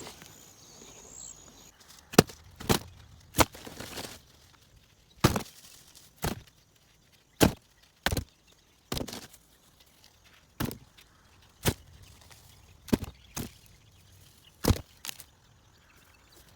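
Potatoes being pulled out and dropped into a bag: a series of sharp knocks at irregular intervals, starting about two seconds in.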